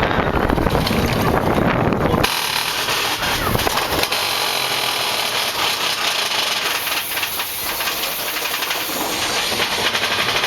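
Big Thunder Mountain Railroad mine-train roller coaster heard from on board. Loud wind and track rumble stop abruptly about two seconds in, giving way to a steady high hiss with rattling of the train.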